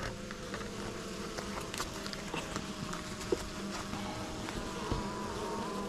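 Honeybees buzzing around an open hive, a steady hum, with a few small clicks and knocks.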